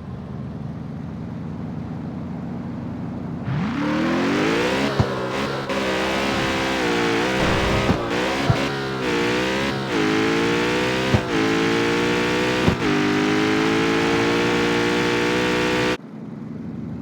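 Jaguar F-Type's supercharged 5.0-litre V8 pulling hard up through the gears. Engine pitch climbs and drops sharply at each of several upshifts, with sharp exhaust cracks at the shifts, then holds steady before cutting off abruptly near the end.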